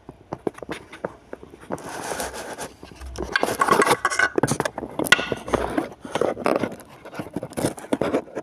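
Irregular clicks, knocks and scraping, busiest and loudest through the middle, with a small-room sound.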